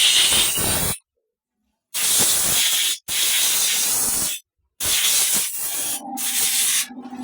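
Loud, steady spray hissing in four stretches, each cut off abruptly to silence. A low hum comes in under the last stretch near the end.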